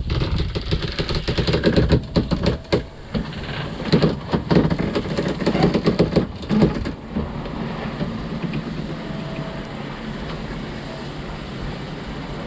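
A sailboat's sheet winch being worked during a tack, with runs of rapid ratcheting clicks and knocks for about seven seconds, then steadier wind and water noise.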